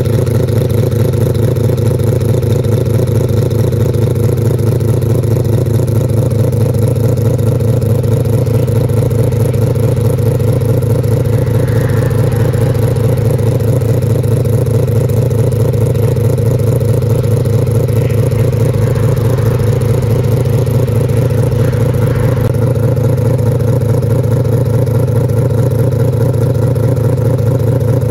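Mazda RX-7 race car's rotary engine idling steadily, with no revving.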